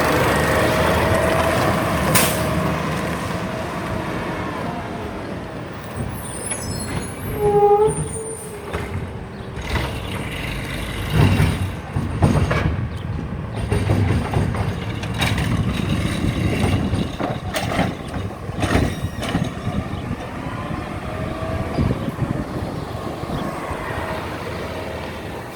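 Garbage truck's diesel engine running with its pitch falling at the start, a sharp burst like an air-brake release about two seconds in, and a short squeal about eight seconds in. Scattered knocks and clanks follow through the middle.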